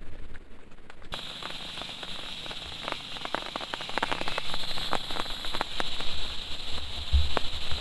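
Heavy rain falling, with many sharp drop impacts tapping over the steady hiss, which sets in about a second in.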